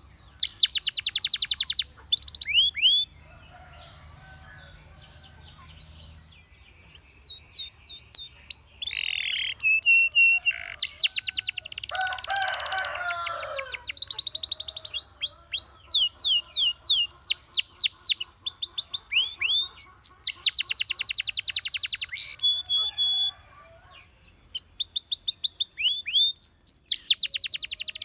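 Domestic canary singing: fast trills of short, quickly repeated falling notes, phrase after phrase, with a quieter pause of about three seconds starting about three seconds in and a brief break near the end.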